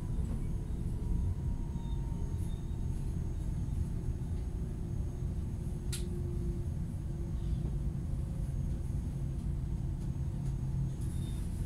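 Steady low rumble of a commuter train running, heard from inside the carriage, with a single sharp click about six seconds in.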